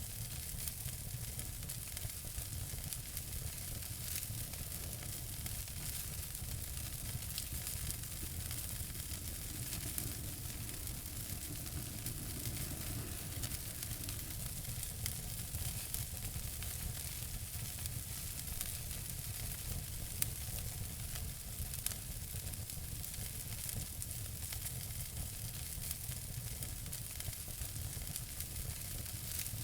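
Wood fire crackling in a fireplace: a steady hiss full of small crackles, with two sharper pops about two-thirds of the way through.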